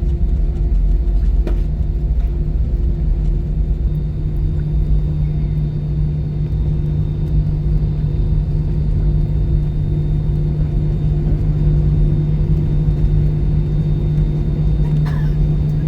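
Airbus A320-214 cabin noise: a steady engine and airframe drone over a deep rumble, with a steady hum that grows a little stronger about four seconds in.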